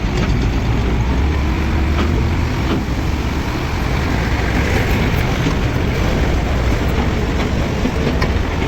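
Heavy diesel machinery engine running steadily, a low rumble with a slightly wavering pitch, and a few faint clicks on top.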